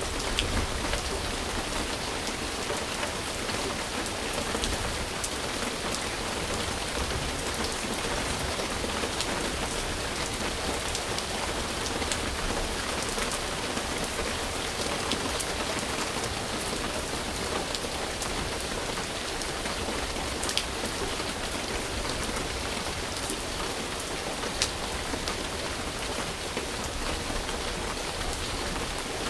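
Steady rain falling, a dense even hiss with individual drops pattering on a surface and a few sharper drop taps.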